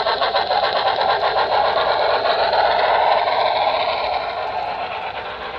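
Model N&W Y6 locomotive running along the track, its motor and wheels making a fast, steady rattle that fades from about four seconds in as it moves away.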